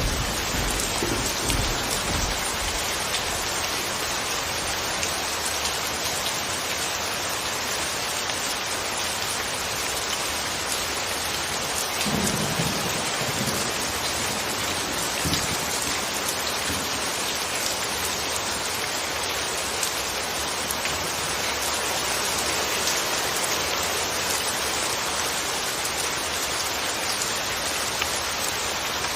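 Steady, even rain falling on surfaces, with low rumbles of thunder at the start and again about twelve seconds in.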